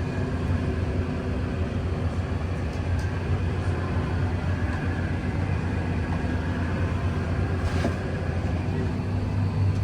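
A steady low rumble, with people's voices in the background.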